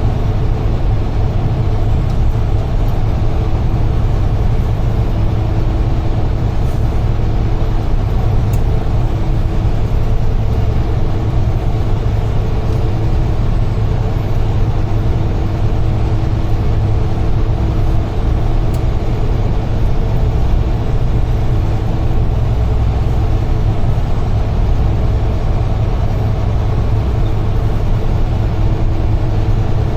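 UD Trucks Quon heavy truck driving at a steady speed, its engine and road noise heard from inside the cab as an even low drone with a faint steady hum.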